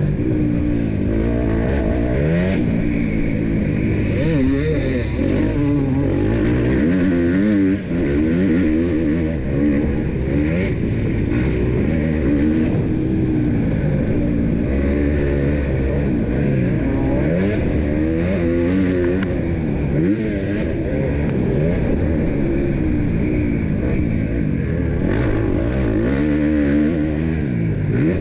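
KTM 250 SX-F four-stroke single-cylinder motocross engine revving hard. Its pitch climbs and drops back over and over as the bike accelerates, shifts and backs off around the track.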